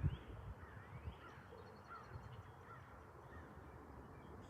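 Birds calling faintly: a quick series of short rising-and-falling calls that die away after about three seconds.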